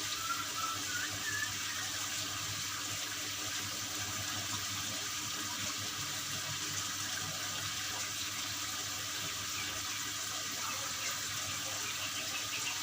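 Water running or spraying in a steady, even hiss, the water-therapy sound used on a white-rumped shama. A few brief bird chirps come in the first second and a half and again near the end.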